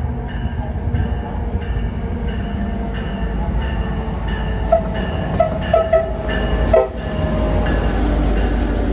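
Metra diesel commuter train starting up: a steady engine rumble with a bell ringing in an even rhythm. About halfway through, the horn gives a few short, choppy, broken-off blasts instead of a clean call, a bad horn. The engine rumble then grows louder as the train gets under way.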